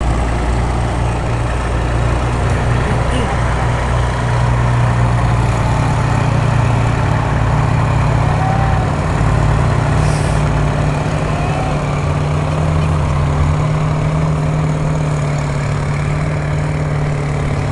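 Heavy diesel truck engine running steadily, its pitch shifting slightly a few times.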